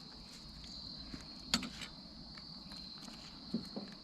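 Insects, crickets by their sound, chirring steadily and high-pitched in the background, with a few short clicks and knocks of handling: the loudest about one and a half seconds in, and two more near the end.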